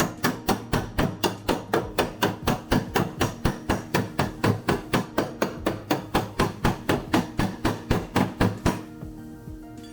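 Body hammer tapping rapidly on a steel car panel in an even rhythm of about four to five blows a second, which stops about nine seconds in. Background music plays underneath.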